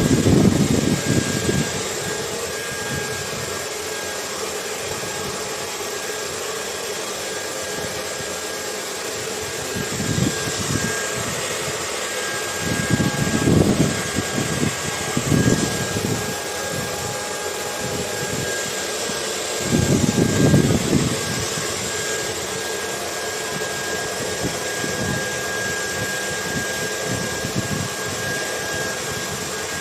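Hair dryer running steadily, a constant rushing hiss with a thin high whine, mixed with wind gusts that swell in low and loud several times, strongest near the start and about two-thirds of the way in.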